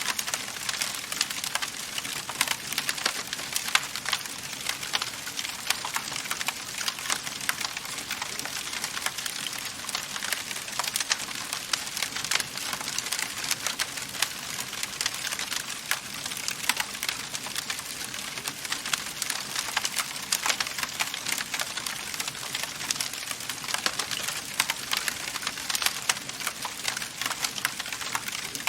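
Wood fire burning in a fireplace, crackling steadily: a dense run of small pops and snaps over a soft hiss, with no lull.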